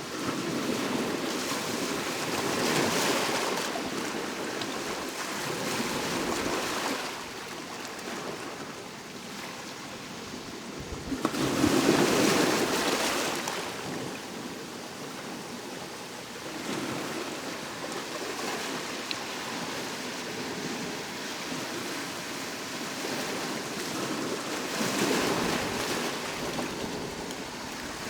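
Sea waves breaking on the shore, surging and falling back in repeated swells, the biggest wave crashing about twelve seconds in.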